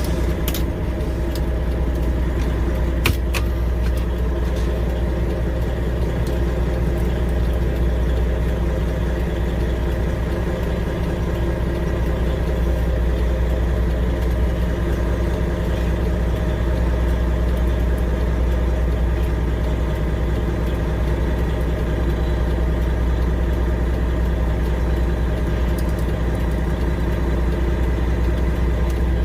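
Freightliner Classic XL semi-truck's Detroit Series 60 diesel engine idling steadily at a constant pitch. A couple of sharp clicks come in the first few seconds.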